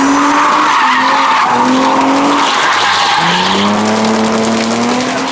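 Loud tyre screech from a car spinning its wheels in a burnout, over its engine revving; the engine note drops briefly, then climbs steadily from about three seconds in.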